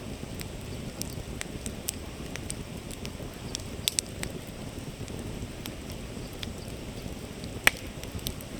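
Wood campfire crackling with sharp, irregular pops, the loudest near the end, over the steady rush of a flowing river.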